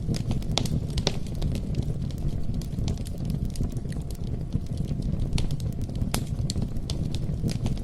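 Wood campfire burning, a steady low rumble with frequent sharp crackles and pops from the burning logs.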